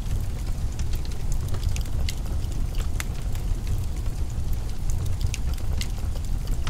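Wood fire crackling in a fireplace: irregular sharp crackles and pops, several a second, over a steady low rumble.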